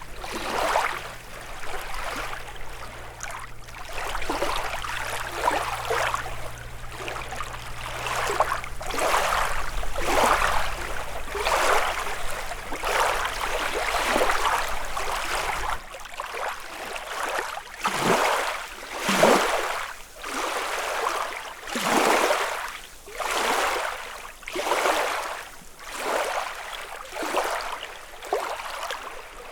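Small lake waves lapping and splashing on the shore, a wash of water about once a second. A low steady hum sits underneath and stops suddenly about halfway through.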